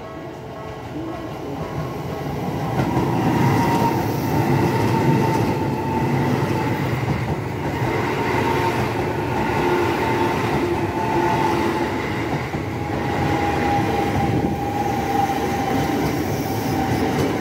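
Electric commuter train passing close by at a level crossing. The rumble and wheel clatter on the rails build over the first three seconds and stay loud, with a held whining tone over the noise.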